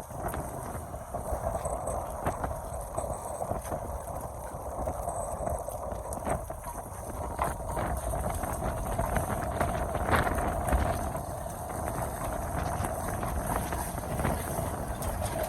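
Strong wind buffeting the microphone as a low rumble that swells in gusts, with a steady, wavering mid-pitched tone and scattered knocks.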